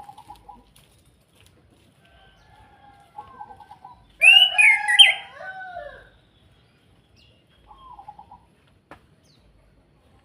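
Orange-headed thrush singing: soft warbled phrases, with one loud, varied phrase of about two seconds near the middle. A single sharp click near the end.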